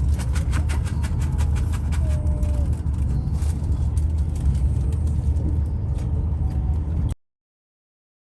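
Steady low rumble of a moving Eurostar train heard from inside the carriage, with a run of sharp clicks in the first few seconds. It cuts off suddenly about seven seconds in.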